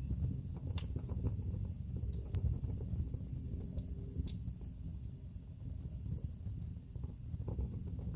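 Wood fire burning in a fireplace: a steady low rumble of flames with scattered sharp crackles and pops from the burning logs, the sharpest pop about four seconds in.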